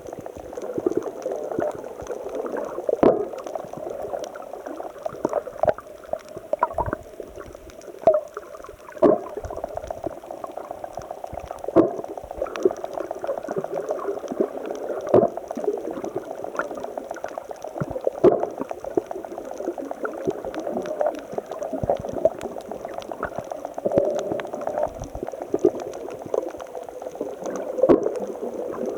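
Sea water churning and gurgling against rocks in a continuous bubbling wash, with many small sharp clicks and pops scattered through it.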